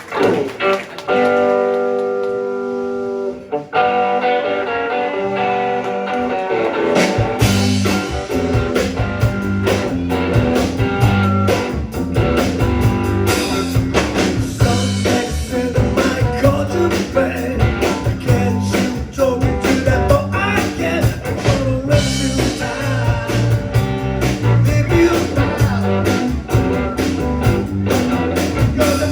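A live rock band starting a song: a held guitar chord rings out, then drums and bass come in about seven seconds in and the full band plays at a steady beat.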